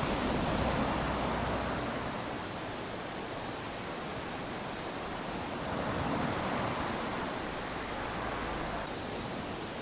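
Small waves lapping onto a sandy beach: a steady wash of surf that swells gently twice, about a second in and again around six seconds in.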